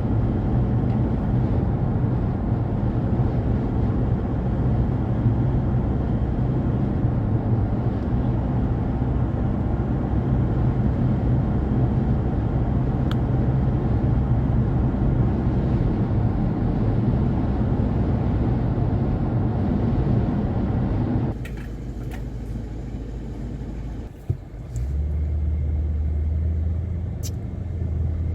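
A car driving on the highway: a steady rumble of road and wind noise. About three quarters of the way through it drops sharply to a quieter sound, then comes a single click and a steady low hum.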